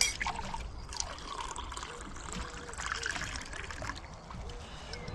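Liquid trickling as it is poured.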